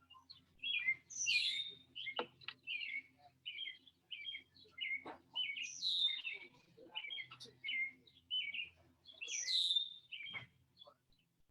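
Songbirds chirping steadily in short high notes, with three louder calls about four seconds apart that each sweep down in pitch.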